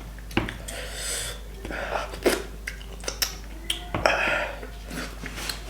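Close-miked eating sounds: chewing and wet mouth noises with a few sharp clicks, and two short hissy bursts about a second in and about four seconds in.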